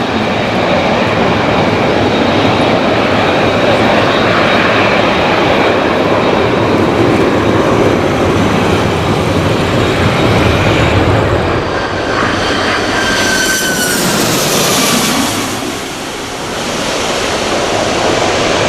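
Jet airliner engines running with a loud, steady rush. About two thirds of the way through, a whining engine tone slides down in pitch as an aircraft passes close by. The noise then dips briefly and builds again.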